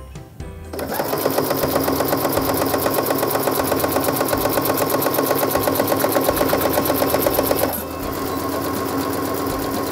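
Brother NQ470L computerized sewing machine stitching at speed, its needle going up and down in a rapid, even rhythm. It starts about a second in and runs more quietly for the last couple of seconds. It is sewing vinyl under a Teflon presser foot.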